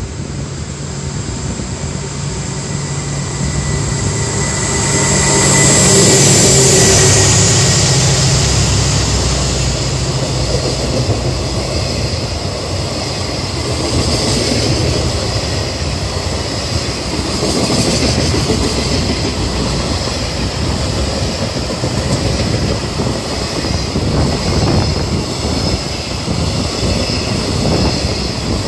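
A freight train locomotive approaches and passes close, loudest about six seconds in. A long string of container flat wagons then rolls past with a steady rumble and the clickety-clack of wheels over rail joints.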